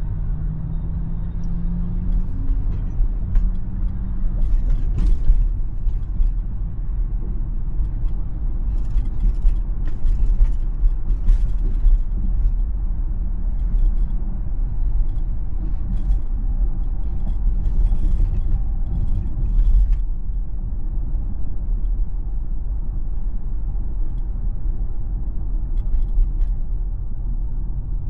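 Steady low rumble of road and tyre noise from a Tesla electric car driving along, with scattered light clicks and ticks through the middle stretch.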